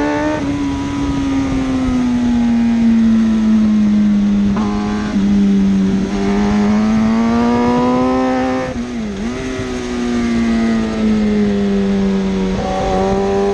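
1000cc superbike engine running hard at high revs, its pitch sagging, climbing and dropping again with throttle and gear changes, with a brief dip about nine seconds in.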